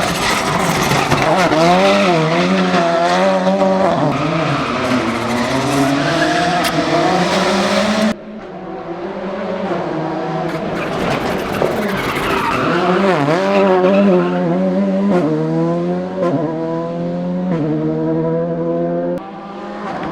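VW Polo R5 rally car's turbocharged four-cylinder engine at full effort on a hill climb. The pitch swings up and down, then climbs in quick steps near the end as it shifts up through the gears. The sound breaks off abruptly twice.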